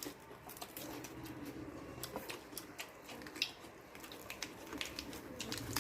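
Quiet eating sounds: scattered small clicks and taps of utensils against dishes and of chewing, at irregular times, over a faint steady hum.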